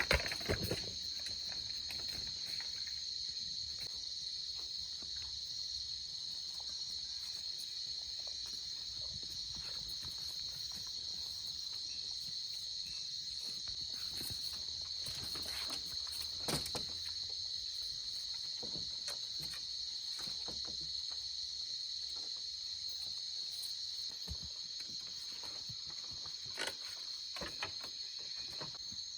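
A steady, high-pitched chorus of insects, such as crickets, running without a break, with a few faint knocks now and then.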